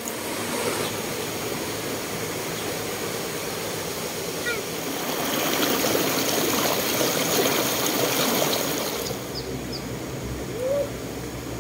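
River water running, a steady rushing of a stream that swells for a few seconds midway and eases about nine seconds in. A few faint short chirps sound over it.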